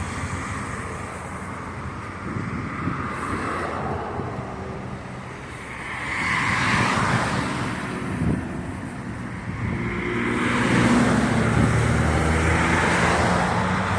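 Road traffic: cars driving past, their engine and tyre noise swelling about six seconds in and again from about ten seconds on.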